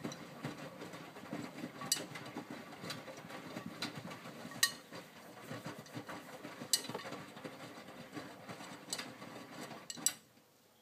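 Miele W562 washing machine drum turning during the main wash: wet laundry tumbling and swishing, with sharp clicks against the drum every second or so. The drum stops about ten seconds in.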